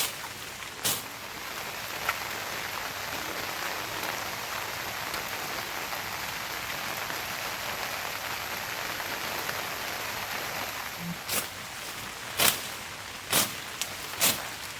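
Steady rainfall, with a few sharp single drops or taps striking nearby: one near the start and several in the last few seconds.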